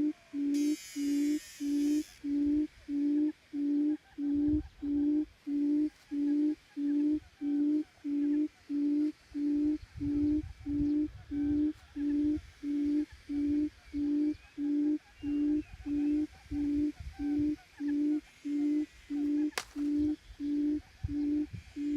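Forest quail calling: a low hooting note repeated evenly, about one and a half times a second, without a break. A brief hiss comes about a second in, and a single sharp click near the end.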